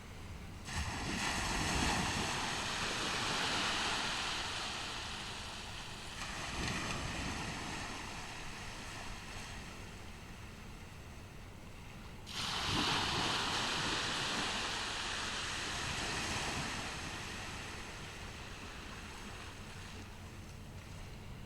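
Ocean waves breaking on a beach. One wave crashes about a second in and another about halfway through, each rushing up and fading over several seconds, with a smaller surge between them.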